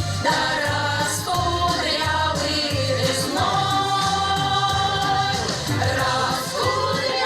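Folk song ensemble singing a song in chorus over instrumental accompaniment with a steady bass line.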